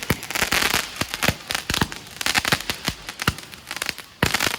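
Fireworks and firecrackers going off: an irregular run of sharp bangs, a few a second, with crackling. There is a brief lull just before a loud bang near the end.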